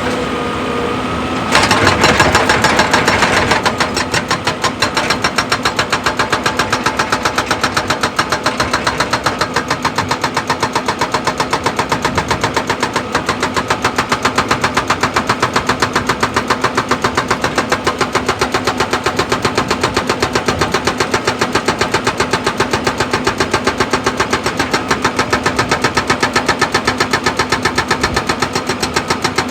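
Heavy machinery, likely an excavator's diesel engine, running with a rapid, even knocking rhythm. It starts louder about a second and a half in and then settles into a steady beat.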